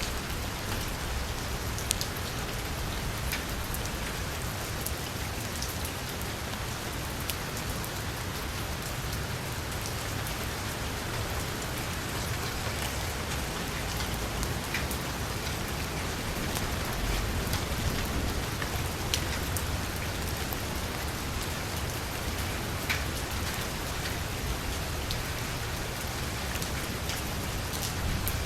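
Heavy rain falling on a car's roof and windows: a steady hiss with individual drops ticking sharply here and there.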